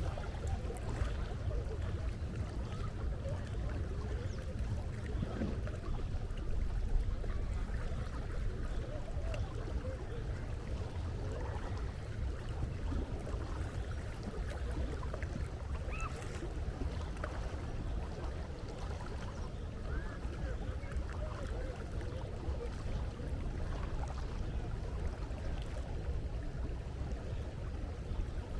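Seaside ambience: a steady low rumble of wind and moving sea water, with faint short sounds scattered through it.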